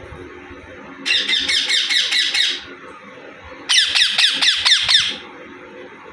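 Indian ringneck parrot screeching in two quick runs of harsh, rapid calls, about five a second, each run lasting a second and a half; in the second run each note falls sharply in pitch.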